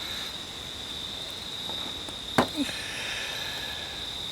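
Steady high-pitched insect chirring, with one sharp knock about two and a half seconds in.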